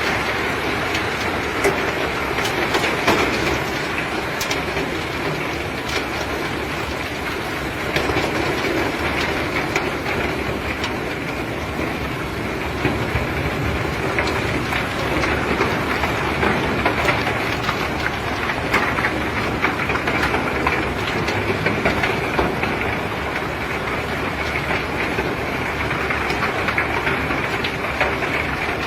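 Rock being unloaded by heavy machinery: a steady rumble with frequent clattering knocks.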